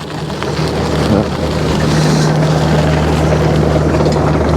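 An engine running steadily with a low hum that grows louder over the first two seconds and then holds, with wind rushing over the microphone.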